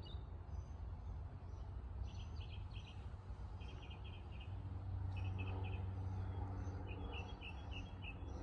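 Small birds chirping in quick runs of three or four high notes, repeating every second or so, over a steady low city rumble. A faint engine hum swells in the middle and fades again.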